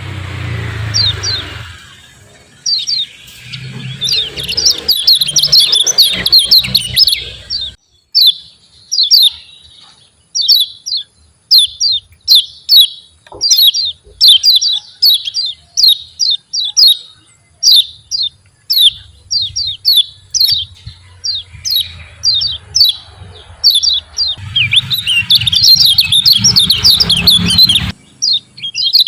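Kecial kuning, a white-eye songbird, singing its 'ciak ciak' song: long runs of short, sharp, high chirps. About three quarters of the way through the runs pack into a dense, fast chatter.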